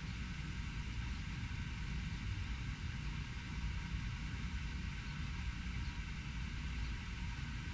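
Steady low rumble of distant urban traffic, unchanging throughout.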